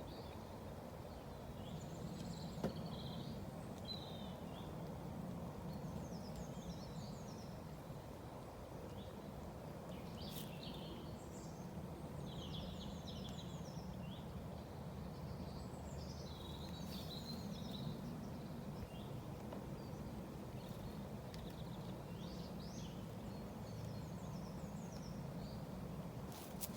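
A steady low hum of honeybees buzzing around an opened hive, with small birds chirping on and off, and one sharp click about three seconds in.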